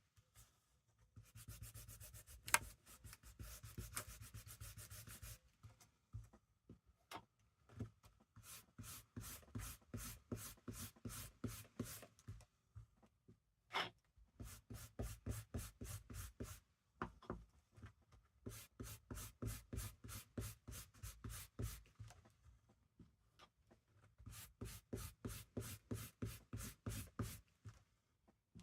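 An ink applicator is rubbed and scrubbed through a stencil onto a piece of fabric. It starts as a continuous scrub, then comes in runs of quick back-and-forth strokes, about four a second, with short pauses between the runs.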